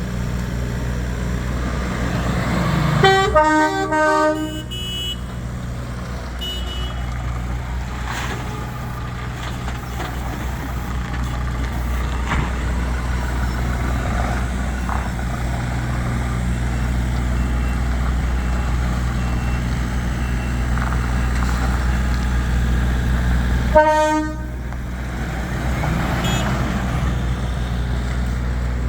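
DAF XF480 tractor unit's 12.9-litre six-cylinder diesel idling steadily, with a vehicle horn sounding a few short blasts about three seconds in and one more short blast near the end.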